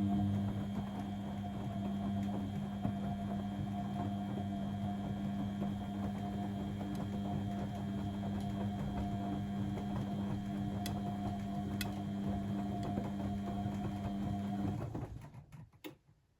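Blomberg WAF 7442 SL washing machine running with a steady motor hum at a constant pitch, typical of the drum turning during a wash phase. The hum winds down and stops about fifteen seconds in, followed by a click or two.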